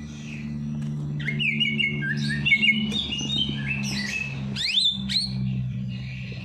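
Songbirds chirping and twittering: a fast, busy run of short stepped notes and several quick rising sweeps, over a steady low hum.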